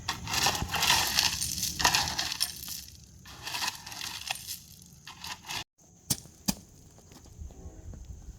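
Gravel or stones crunching and scraping in repeated strokes, each under a second. The sound cuts off abruptly a little past halfway, and a few sharp clicks follow over quieter background noise.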